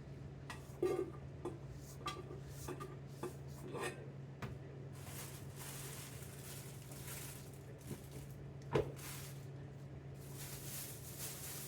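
Kitchen knife and onion on a wooden cutting board: a few scattered taps, then scraping and sliding of the sliced onion across the board, with one more knock partway through.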